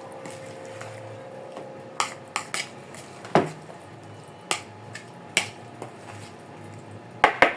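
A utensil clinking and knocking against a bowl while a salad is mixed. There are a handful of separate clinks a second or so apart, then a quick run of them near the end, over a steady low hum.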